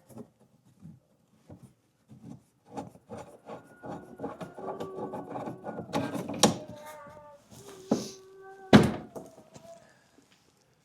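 A small child fussing and whimpering in short cries that come and go as he settles back to sleep, with scattered clicks and two sharp knocks, the louder one near the end.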